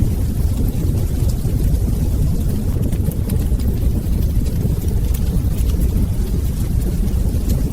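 Wood fire burning in a fireplace: a steady low rumble from the flames, with small crackles and pops scattered throughout.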